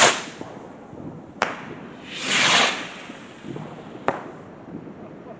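Fireworks going off: a short burst at the start, a sharp crack about a second and a half in, a hissing burst lasting about half a second around two and a half seconds, and another sharp crack near four seconds.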